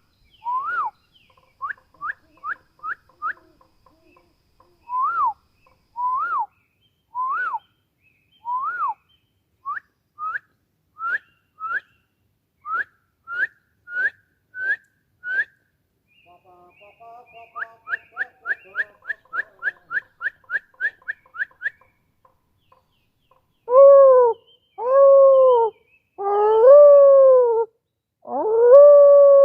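A bird's clear whistled calls: short up-slurred notes repeated every half second or so, then a fast run of quick notes. Near the end come four or five loud, longer, arching calls of about a second each.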